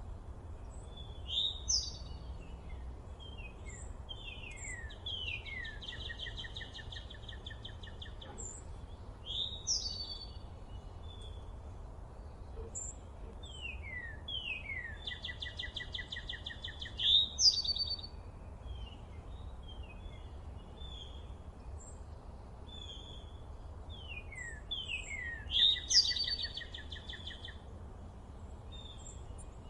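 A songbird singing the same phrase about every ten seconds: a few quick down-slurred notes, then a fast trill. Scattered single chirps fall between the phrases, over a steady low outdoor rumble.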